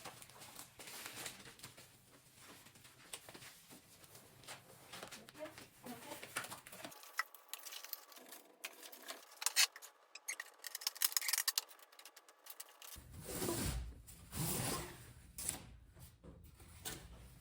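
Hand-packing sounds: packaging material rustling and crinkling with scattered clicks and taps, and a few heavier knocks of handling about two-thirds of the way through.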